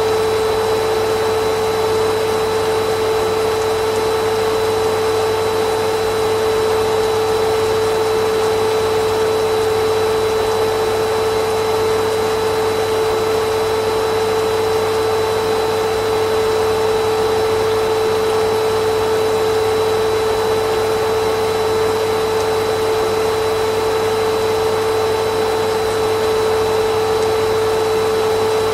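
Vacuum cleaner motor running steadily, a constant rushing noise with a strong steady whine, unchanging throughout.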